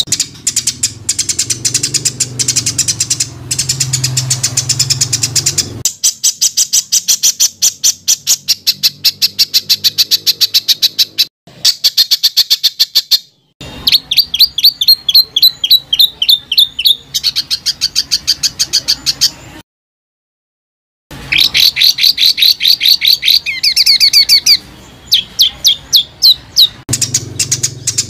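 A songbird singing dense, rapid-fire runs of short harsh notes, many per second, the 'tembakan' phrasing used as master song for training competition songbirds. The song breaks off for brief silent gaps, the longest a little over two-thirds of the way through.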